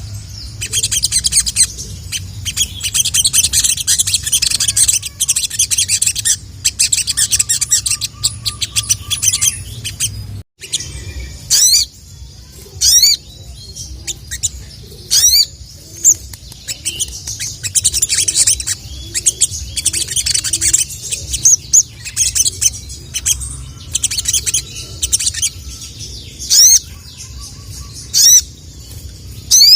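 A sogok ontong (sogon) bird singing with dense high chirps and twitters, broken by repeated sharp rising "cuit" whistles, over a low steady hum. The song cuts out for an instant about ten seconds in.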